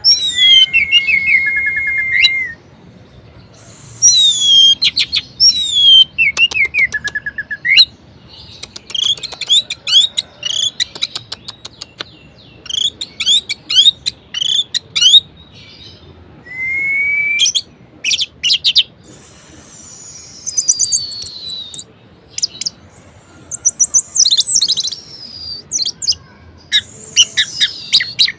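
Orange-headed thrush singing a varied song of loud whistled phrases. A held note opens it, followed by quick falling slurs, fast runs of short chattering notes, and a long descending whistle about two-thirds through, with short pauses between phrases.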